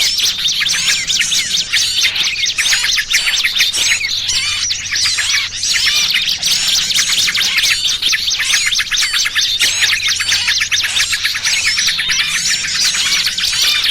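A bird-lure recording of small birds chattering: many quick, high chirps and trills overlap without a break. The mix is the noisy calls of small birds meant to draw wild small birds in for trapping.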